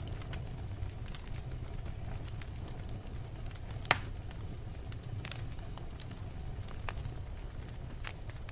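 Wood fire burning in a fireplace: a steady low rumble of flames with scattered crackles, and one loud pop of the logs about four seconds in.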